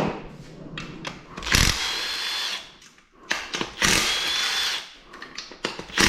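Handheld power driver run in short bursts of about a second each, its motor giving a steady high whine, with a few knocks and clatter between bursts.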